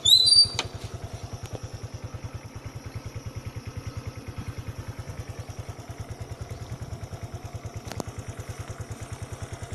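Habal-habal motorcycle engine running at low, steady revs, an even, rapid low putter. A brief high-pitched squeak rising in pitch comes right at the start, and there is a single sharp tick near the end.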